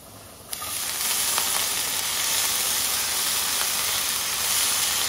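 Chopped red amaranth (red spinach) leaves sizzling and steaming in a hot steel frying pan of tempered shallots and chillies. The sizzle starts suddenly about half a second in and holds steady.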